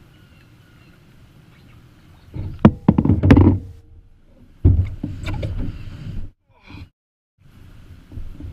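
Canoe paddling in rough water: sharp knocks of the paddle against the canoe hull with low thumps of water and wind, in two loud spells about two and five seconds in.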